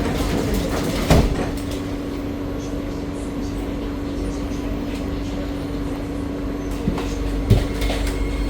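Interior of an SMRT C151B metro train running, with a steady rumble and a constant hum. Two short knocks stand out, about a second in and near the end.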